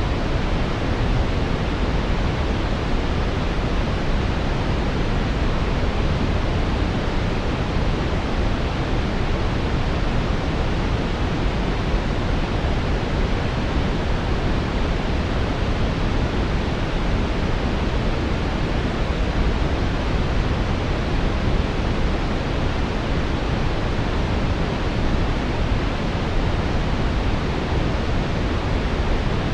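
Steady brown noise: a continuous, even rushing hiss weighted toward the deep lows, with no changes or events.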